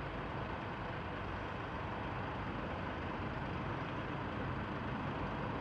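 Steady, even rumble and hiss of a motor vehicle, with no change in pitch or level.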